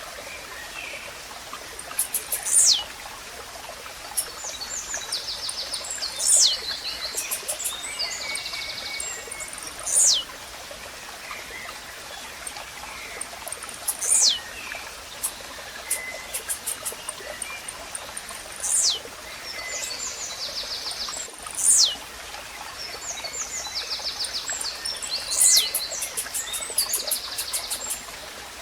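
Blue-black grassquit (tiziu) singing, seven short, sharply falling calls about every three to four seconds. Between them come other small birds' high chirps, over the steady trickle of a stream.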